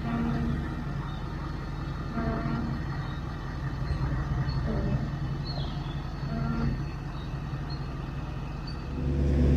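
A heavy engine running steadily, then getting louder about nine seconds in, as if revved or put under load.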